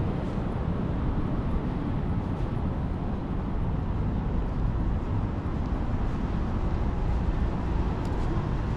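Steady city street noise: a low rumble of passing traffic.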